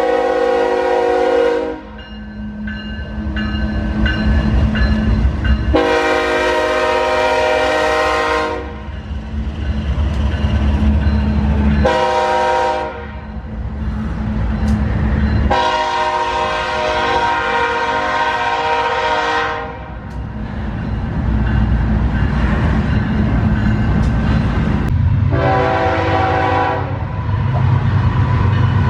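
Diesel freight locomotive's multi-chime air horn blowing the long, long, short, long grade-crossing signal, with one more blast near the end, over the steady low rumble of the passing train's diesel engines.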